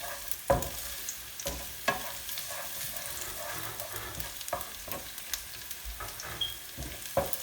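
Sliced garlic sizzling in hot oil in a pan as it is stirred, with a few sharp knocks, the loudest about half a second in, about two seconds in and near the end.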